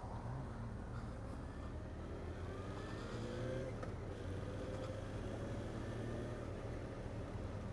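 Motorcycle engine under way, heard from the rider's camera with wind rushing over the microphone; the engine pitch rises for a couple of seconds as it accelerates, breaks off at a gear change, then settles steady.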